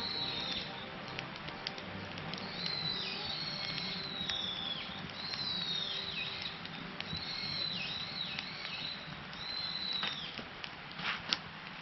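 Open wood campfire crackling, with sharp pops and snaps here and there over a steady hiss. A series of high falling whistles repeats about every second or so through the middle.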